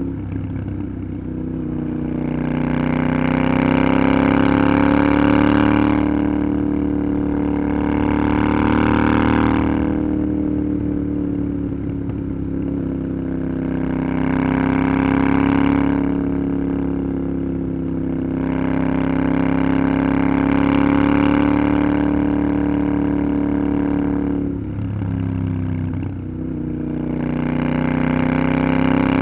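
Parallel-twin motorcycle engine running under way, its note rising and falling with the throttle, with wind rush swelling at times. About 25 seconds in, the engine note drops briefly and then picks up again.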